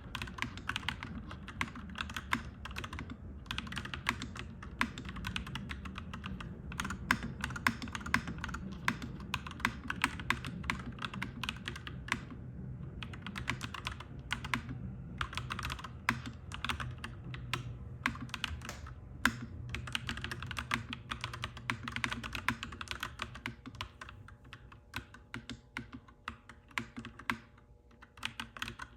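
Clacky mechanical keyboard being typed on in rapid, continuous runs with a couple of short pauses. A low rumble sits underneath and fades out in the last few seconds.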